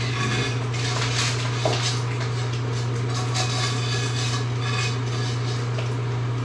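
Kitchen dishes and utensils clattering and scraping as food is prepared, over a steady low hum.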